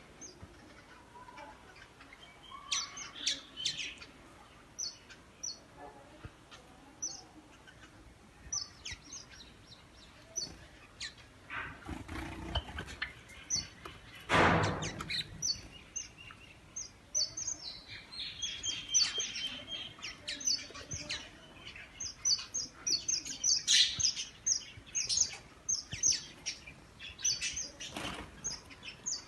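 Many small aviary finches chirping with short, high calls, busier in the second half. There is a brief loud noise about halfway through.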